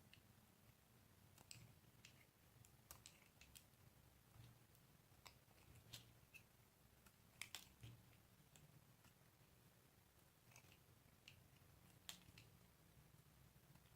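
Soap being cut with a blade: faint, scattered crisp clicks and small crunches, a few sharper ones at irregular moments.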